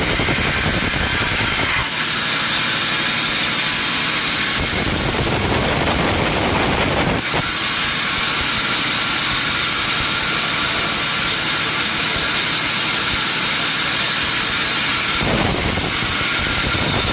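Sawmill machinery running, a loud steady hissing noise that shifts in character a few times, as at about two, five, seven and fifteen seconds in.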